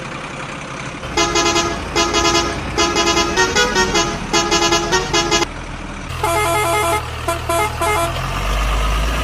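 A multi-tone musical truck horn playing a tune in quick, pitch-changing beeps, in two phrases with a short pause between them. A low engine hum runs underneath.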